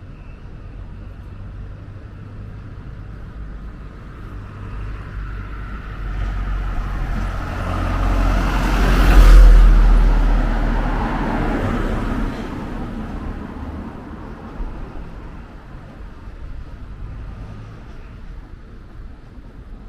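A road vehicle passing close by. Its engine and tyre noise swells for a few seconds to a peak about nine seconds in, then fades, over a steady low traffic rumble.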